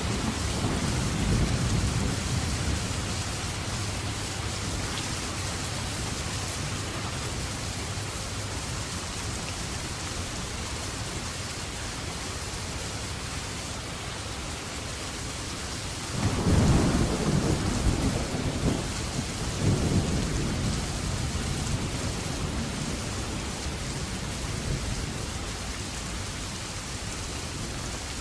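Steady rain falling, with thunder rumbling low through it: a rumble near the start and a louder, longer roll about two-thirds of the way through.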